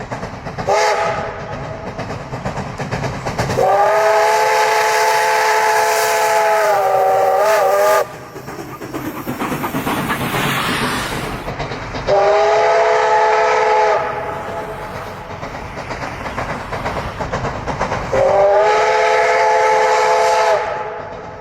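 Steam locomotive's chime whistle blown four times: a short toot, a long blast that wavers just before it cuts off, then two blasts of about two seconds each. Between the blasts the train's running noise on the rails carries on, with a rushing hiss after the long blast.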